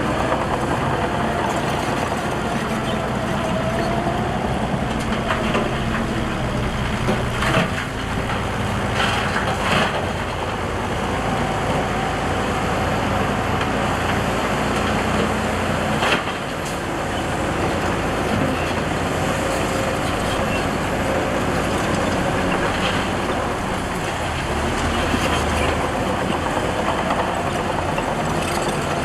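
Heavy diesel earthmoving machinery running steadily under load, with a few sharp metallic clanks scattered through.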